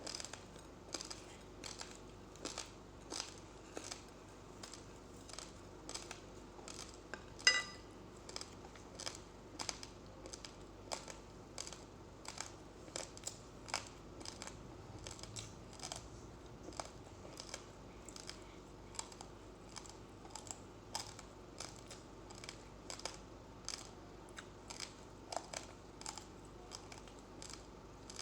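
Raw uncooked rice grains crunched between the teeth, a crisp crack with each bite, about two to three a second. One louder sharp click with a brief ring about a third of the way in.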